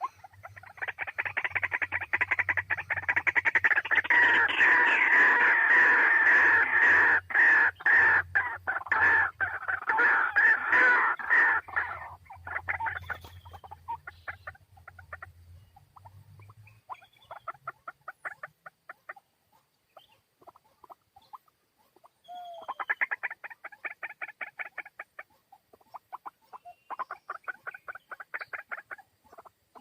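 White-breasted waterhen calling: a loud, fast run of repeated harsh notes for about twelve seconds, then scattered calls and two shorter bursts of rapid notes near the end. A low steady hum sits under the first half and stops partway through.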